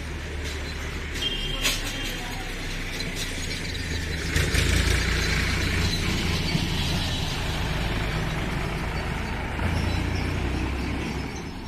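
A pressure washer's motor hums steadily. From about four seconds in, a hissing water jet sprays onto the car body.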